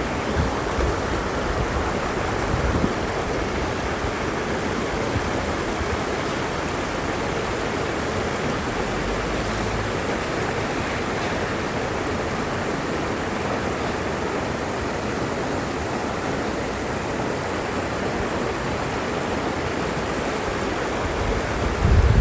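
Mountain stream rushing steadily over rocks, with a faint gust of wind on the microphone about halfway through.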